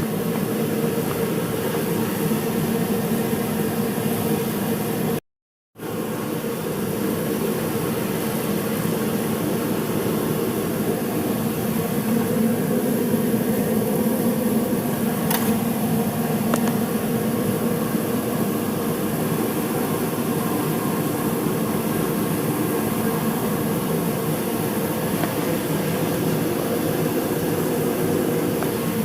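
A steady mechanical hum with no change in pitch, cut off dead for about half a second about five seconds in, with a couple of faint ticks in the middle.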